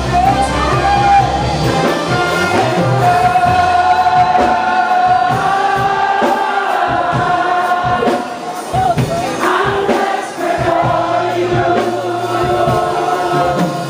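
Gospel choir singing sustained, held notes over instrumental accompaniment.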